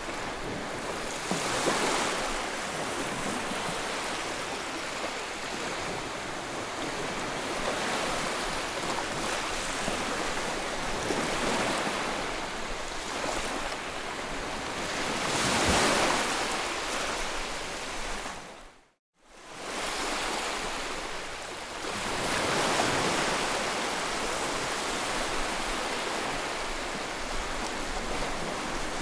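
Ocean waves: a steady rushing wash of surf that swells and ebbs every few seconds. About two-thirds of the way through, the sound dips out to silence for a moment, then comes back.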